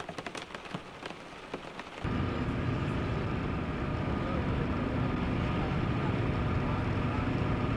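Rain pattering on a car from inside the cabin, then an abrupt cut about two seconds in to the steady low rumble of engine and road noise inside a moving car, with a faint whine over it.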